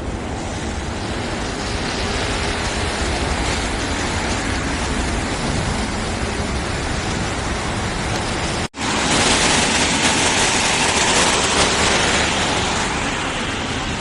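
CN container freight train rolling past, a steady rushing rumble of wheels on rail. The sound drops out for an instant about two-thirds of the way through, then returns louder and hissier for a few seconds.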